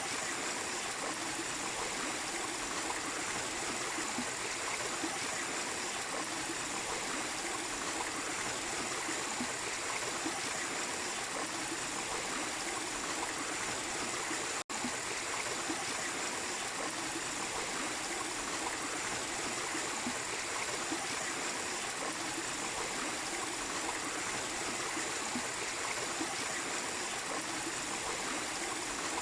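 Mini waterfall splashing and streaming steadily, an even rush of water without let-up, broken only by a momentary dropout about halfway through.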